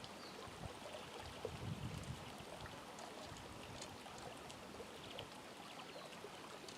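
Shallow creek water trickling and flowing steadily, with small faint ticks of water over stones.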